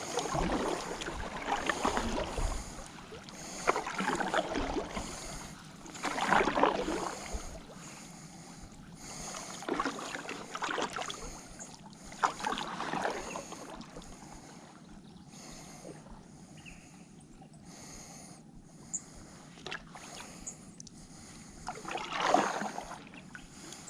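Kayak paddle strokes dipping and splashing in river water, one about every two seconds at first, then easing off to a quieter glide, with one more stroke near the end.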